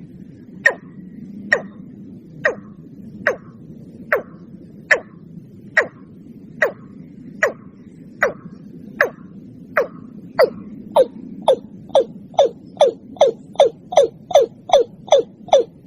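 Watercock calling: a series of sharp falling notes, about one a second at first and speeding up to about three a second toward the end, over a low steady hum.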